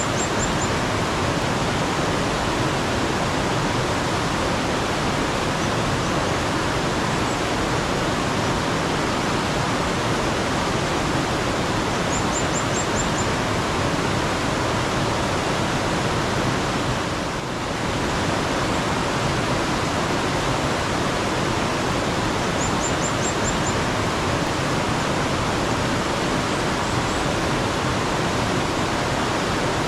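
Steady rush of running water from a mountain stream, with a small bird giving a short, very high trill of about five quick notes roughly every ten seconds.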